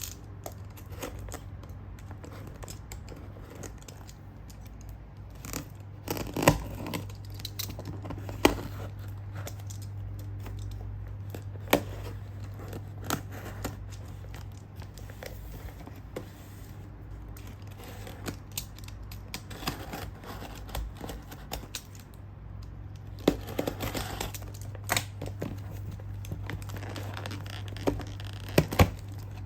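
A parcel being unpacked by hand: packaging tape and wrapping torn and crinkled in irregular bursts, with sharp clicks and taps, over a steady low hum.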